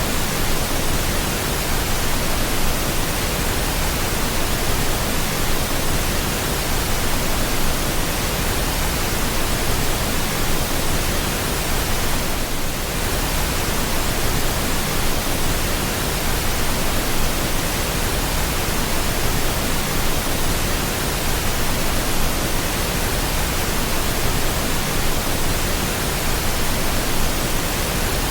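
Steady pink noise: an even, unbroken hiss spread across all pitches, played as a sleep sound to calm a baby. There is a slight momentary dip in level about twelve seconds in.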